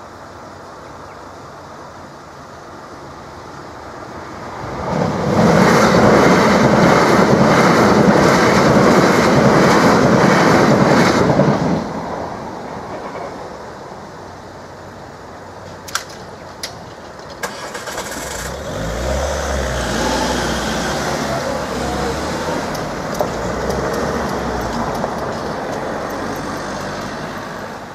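A pair of Class 375 Electrostar electric units passes over the level crossing at speed, a loud, even rush of wheels and air lasting about six seconds. A few sharp clattering clicks follow as the crossing barriers lift, then car engines and tyres as the waiting traffic moves off over the crossing.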